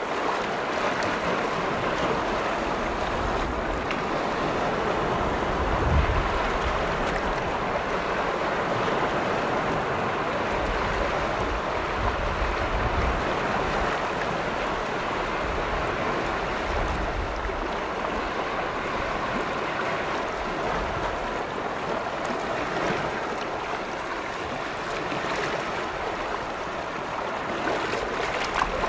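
Small lake waves washing steadily against a shore, a continuous watery wash, with now and then a low rumble of wind on the microphone.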